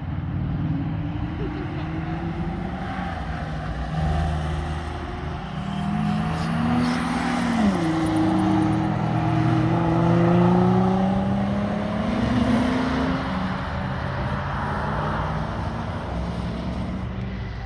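A V8 car engine under hard acceleration, its pitch climbing and then dropping sharply about eight seconds in as it shifts up a gear, then climbing again.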